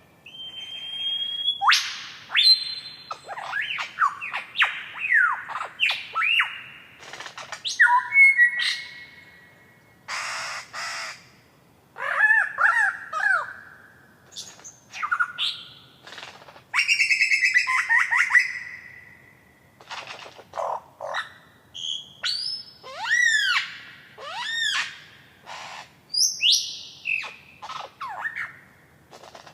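A single bird giving a long, varied run of calls: whistles, squawks and chirps, many sweeping up and down in pitch, each a second or less, with short pauses between.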